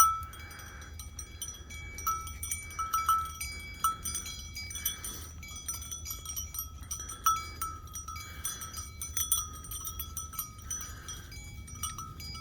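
A livestock bell worn by a sheep clanking irregularly as the sheep feed, with soft crunching as the sheep chew pumpkin rind.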